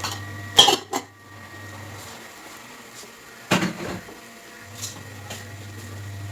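A cooking utensil clattering against a pan, with sharp knocks twice about half a second apart near the start and once more past the middle, as masala powder is worked into the pan. Under it a low hum stops partway through and comes back near the end.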